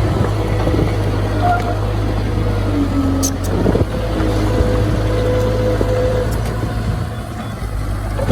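Diesel engine of heavy earthmoving equipment running steadily at a low, even hum, with a few short whining tones over it.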